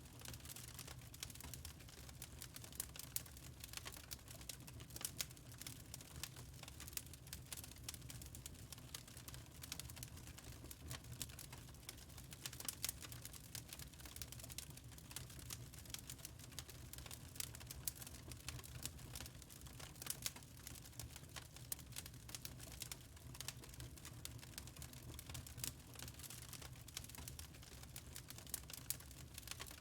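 Wood fire burning in a fireplace, crackling with many small irregular pops and snaps over a steady low rumble.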